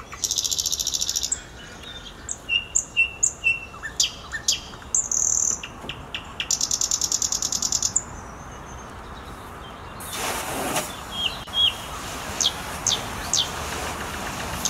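Songbirds chirping, with rapid high trills and short whistled notes. From about ten seconds in, a steady hiss of water spraying from a garden hose joins them.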